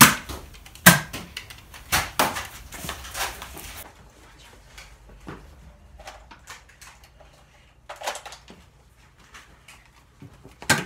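Foam-dart Nerf blasters firing and darts striking: a run of sharp clacks and knocks over the first few seconds, then only scattered faint clicks.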